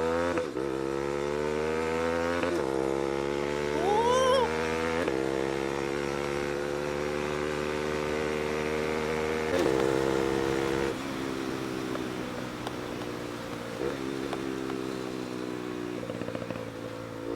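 Single-cylinder Bajaj Pulsar NS200 engine through an SC Project aftermarket exhaust, ridden: its pitch climbs and drops back in steps as it pulls up through the gears, then eases off and settles near the end. About four seconds in, a brief gliding tone rises and falls over it.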